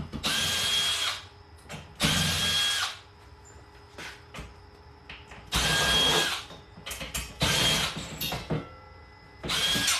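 Power drill running in five short bursts of about a second each, with a steady high whine in each run.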